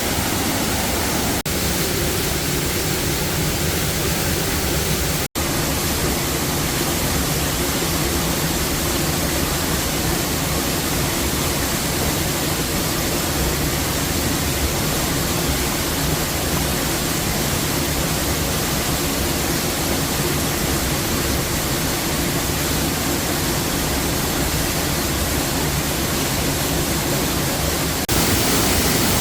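Waterfall: a steady rush of falling water. It cuts out briefly about five seconds in and gets a little louder near the end.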